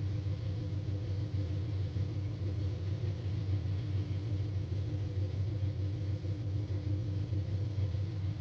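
An engine running with a steady low rumble and an even hum throughout.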